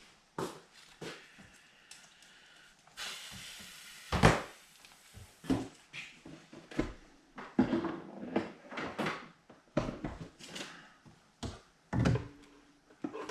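Knocks, clunks and rustles from handling a power cord and plugging it in to run a drill press, with about a second of scraping around three seconds in and the loudest thump just after.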